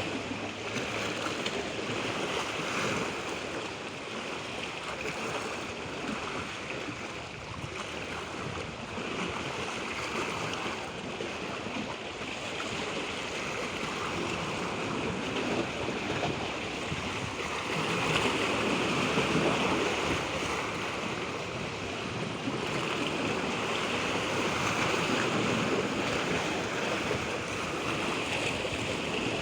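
Natural water sound: a steady rush of moving water, swelling louder for a few seconds around two-thirds of the way through.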